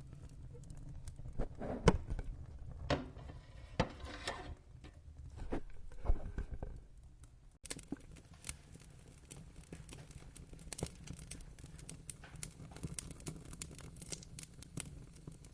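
Wood fire crackling and popping in a fireplace over a steady low rumble, with a few louder pops in the first half and lighter, steady crackling after a brief drop-out about halfway.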